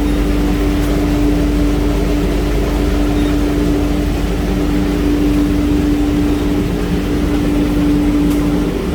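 Washing machine running with a loud, steady hum that holds one pitch throughout.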